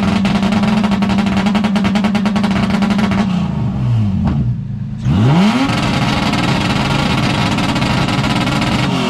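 Car engine revved hard and held steady at high revs for about three seconds, dropping back, then revved up again a couple of seconds later and held high again.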